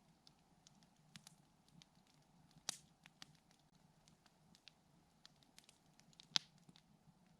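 Wood campfire crackling softly with many small scattered snaps, and two louder pops, one about three seconds in and one near the end.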